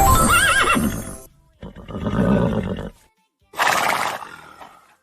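A horse whinnying: one call with a wavering, quavering pitch in the first second or so, then two separate breathy, noisy bursts.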